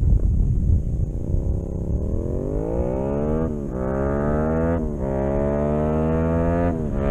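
Yamaha MT-07's 689 cc parallel-twin engine through an aftermarket exhaust, accelerating hard: the pitch climbs steadily, then drops sharply three times as it shifts up through the gears, about halfway through, a second later, and near the end.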